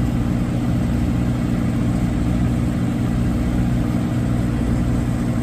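Steady, even drone of heavy machinery running during a transfer of liquid asphalt from a railcar to a tanker trailer, a low hum with no change in pitch.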